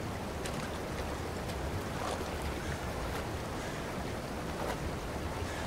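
A small boat under way on open water: a steady low rumble with a rush of water and wind.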